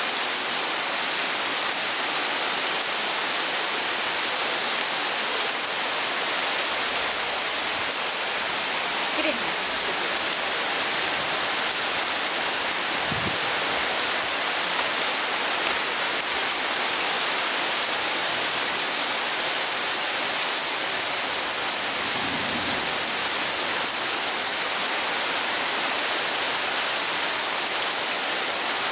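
Very heavy rain pouring down and hitting surfaces in a steady, dense hiss.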